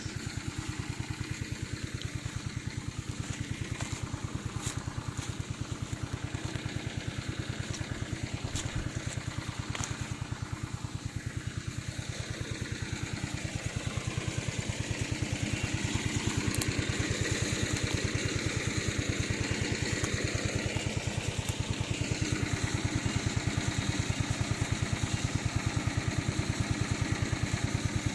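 Remote-controlled lawn mower's small engine running steadily with a fast, even pulse, growing somewhat louder about halfway through.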